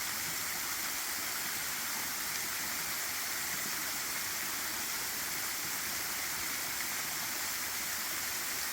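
Waterfall rushing: a steady, even hiss of falling water that holds level throughout.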